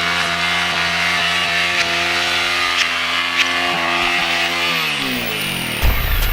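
Motorcycle engine held at high, steady revs, then the revs fall away over about a second near the end, followed by a low rush of wind noise.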